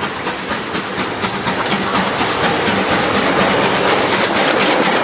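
Train rolling on rails: rapid, even clickety-clack of the wheels over a steady hiss.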